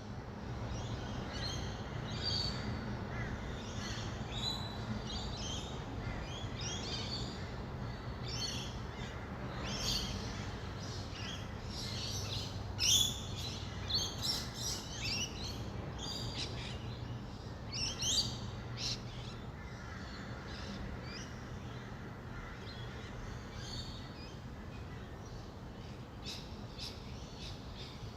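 Rainbow lorikeets calling in many short, high chattering calls, busiest and loudest in the middle, over a steady low hum of distant city traffic.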